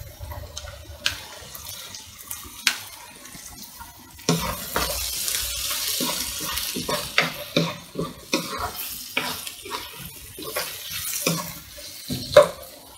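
Sliced red onions and green chilies sizzling in oil in a frying pan, with a spatula scraping and knocking against the pan as they are stir-fried. The steady sizzling hiss and the stirring knocks set in about four seconds in, after a few light clicks.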